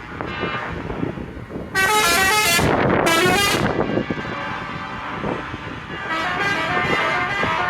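Truck air horns blowing: two loud blasts about two and three seconds in, then a quieter horn from about six seconds, over the low running of truck engines.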